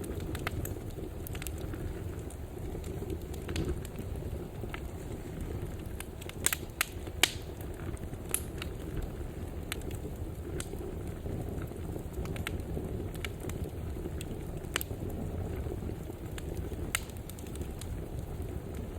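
Wood fire burning in a fireplace: a steady low rumble of flames with scattered crackles and sharp pops, a few louder pops about six to seven seconds in.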